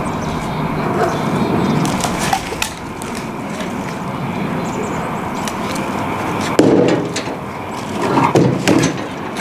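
Tree branches being handled: rustling and scraping, with several wooden knocks, the loudest about six and a half seconds in.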